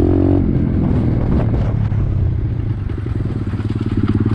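Pit bike engine running, easing off after the first half second and settling into a slow, pulsing idle over the last second or so.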